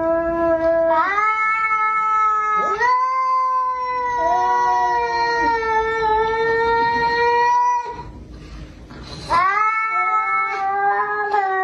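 A cat yowling in long drawn-out calls. Each call swoops up in pitch, then holds steady for several seconds. After a brief pause near the middle, the yowling starts again.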